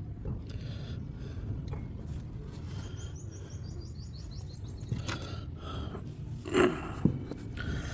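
A bird gives a short descending run of high chirps a few seconds in, over a steady low background rumble. Later come two brief louder bursts, the second one the loudest.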